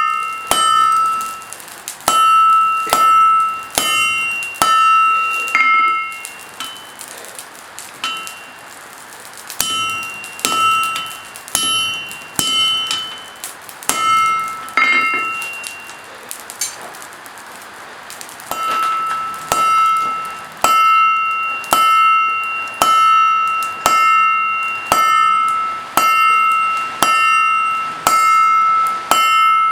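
Forging-hammer blows on an anvil, each strike ringing with the same few bell-like tones, at about one blow a second. The hammering slackens twice, about a quarter of the way in and again a little past halfway.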